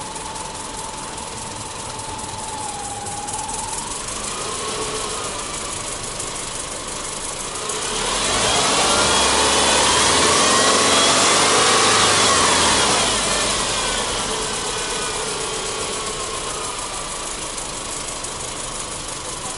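Subaru Legacy Touring Wagon 2.0i's horizontally opposed four-cylinder engine idling, then revved in neutral about eight seconds in. The revs are held up for a few seconds, then drop back to idle.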